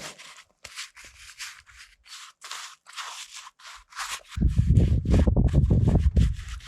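Paintbrush rubbing across a canvas in short, repeated strokes, about two or three a second. From about four seconds in, a loud low rumble of wind on the microphone takes over.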